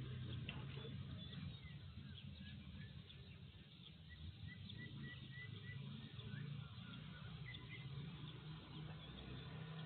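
Birds chirping, with a run of about six quick, evenly spaced high notes in the middle, over a steady low hum.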